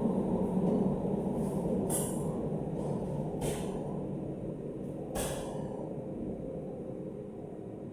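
A steady low mechanical rumble that slowly fades, with three short hisses of air over it.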